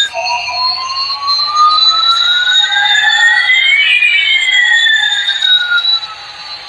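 Two electronic tones sweeping slowly in opposite directions, one rising in pitch while the other falls, crossing about four seconds in.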